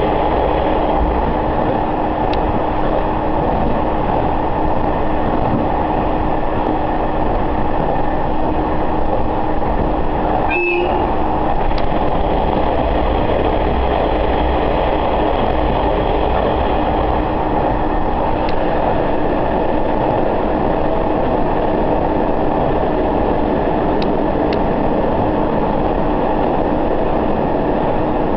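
Sanriku Railway diesel railcar running along the line, heard from inside the carriage: steady engine and wheel-on-rail running noise with a low drone that stops about ten seconds in, at a very brief break in the sound.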